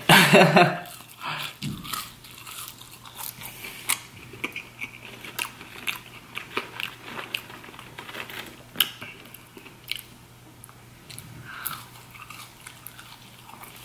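A person chewing McDonald's French fries close to the microphone, with irregular wet mouth clicks and soft crunches. There is a brief vocal sound right at the start.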